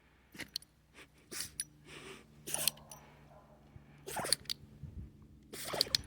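A dog in a sneezing fit: a string of short, sharp sneezes and snorts, the loudest about two and a half, four and six seconds in.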